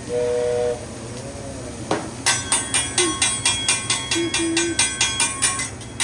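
A short whistling tone, then a hibachi chef's metal spatula clanging on the steel griddle in a quick run of sharp strikes, about four a second, for a few seconds, with a faint metallic ring.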